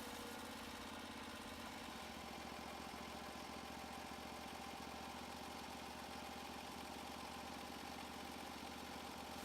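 Portable bandsaw sawmill's engine idling steadily, with an even low hum and no cutting load.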